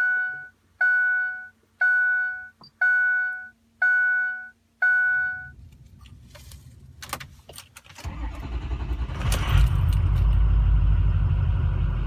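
A dashboard warning chime dings six times about a second apart, then the 6.0-litre Power Stroke V8 turbodiesel of a 2006 Ford F-350 catches about eight seconds in on a cold start near freezing, flares up briefly and settles into a steady idle.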